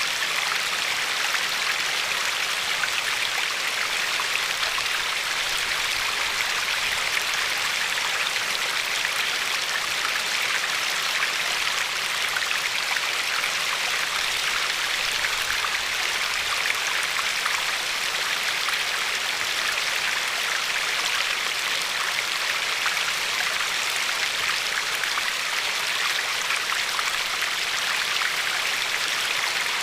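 Glacier-fed river flowing and lapping over a pebble shore: a steady, even rush of water with fine splashing and no change in level.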